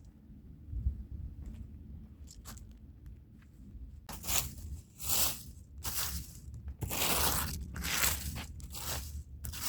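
Stiff hand brush scrubbing a rug's fibres. Only faint scratches for the first few seconds, then from about four seconds in a run of rough, crunchy back-and-forth strokes, one or two a second.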